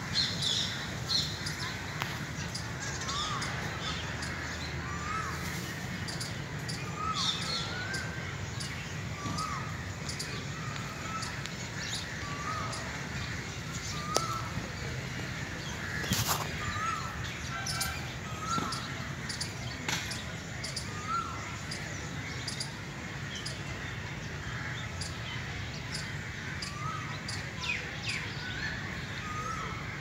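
Birds calling: a short call repeated irregularly every second or two, over higher chirps, with a single sharp click about halfway through.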